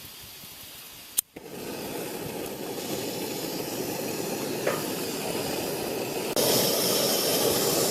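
MSR PocketRocket canister stove lit with a sharp click about a second in, then the gas burner hissing steadily. The hiss steps up louder about six seconds in.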